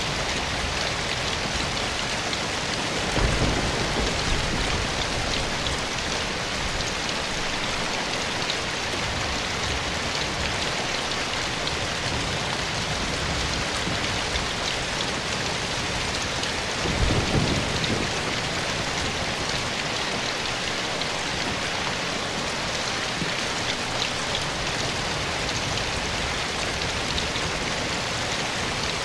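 Steady rain falling in a forest, an even hiss of drops on leaves and ground. Two brief low rumbles swell up, about three seconds in and again about seventeen seconds in.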